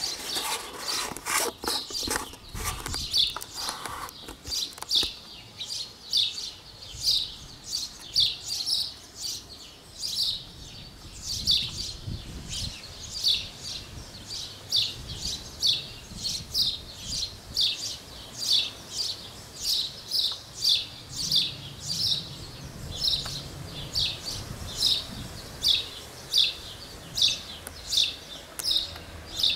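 A bird chirping over and over, short high calls a little more than once a second. There is some rustling and clicking in the first few seconds.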